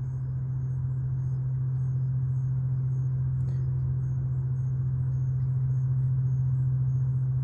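A loud, steady low-pitched hum with a rumble beneath it, swelling slightly toward the end, of unknown origin; the person recording suspects construction equipment.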